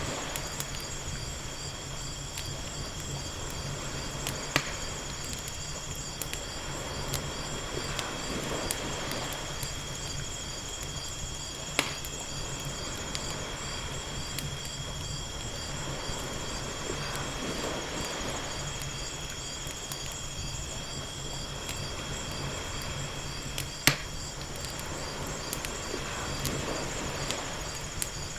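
Ambience of a crackling fire with a few sharp pops, over gently lapping ocean waves that swell softly every few seconds. A steady high-pitched trill runs underneath.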